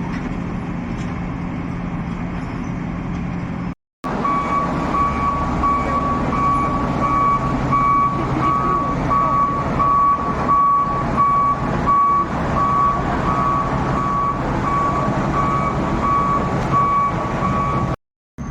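Heavy road-works machinery running with a steady engine noise. After a short break, a reversing alarm starts beeping over the diesel engine and keeps a regular beep going until near the end.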